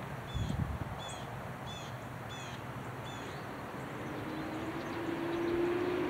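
A small bird chirping, a run of short high notes about every half second that stops about halfway through. From about four seconds in, the low steady hum of a passing vehicle's engine swells in and becomes the loudest sound.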